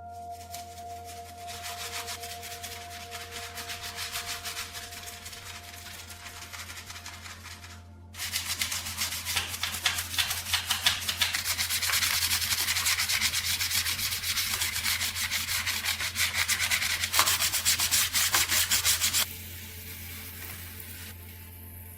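Abrasive sanding or rubbing on metal in rapid, continuous strokes. The strokes are moderate at first, get clearly louder about 8 seconds in, and drop back near the end, over a steady low hum.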